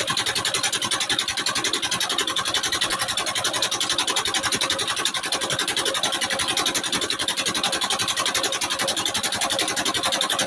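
Old Petter stationary diesel engine running steadily with a fast, even beat.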